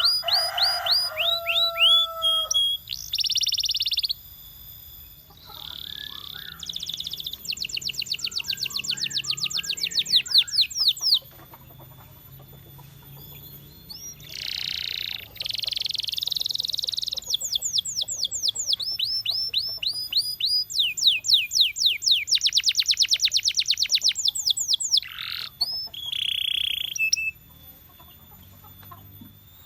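Domestic canary singing: phrases of fast repeated chirping notes and buzzy rolls, broken by short pauses.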